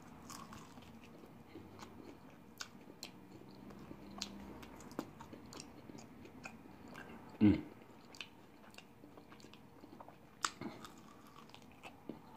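A person biting and chewing crisp fried chicken at close range: quiet wet mouth clicks and small crunches throughout, with one short louder sound about seven and a half seconds in.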